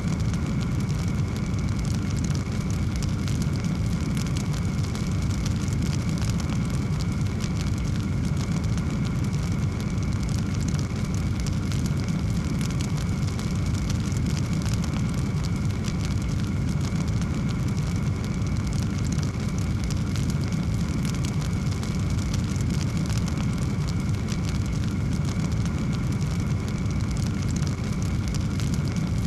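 Wood fire burning in a fireplace: a steady low rumble of flames with dense, continuous small crackles.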